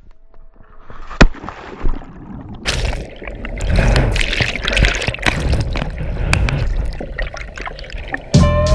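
Water splashing and sloshing right at a GoPro camera: a sharp knock about a second in, then a sudden loud splash a little under a third of the way in that runs on as churning water with many small clicks.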